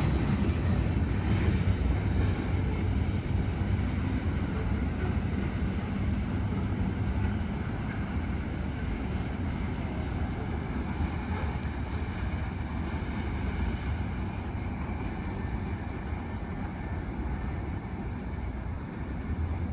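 Freight train rolling past on the rails, a steady low rumble that slowly grows quieter as the train moves away.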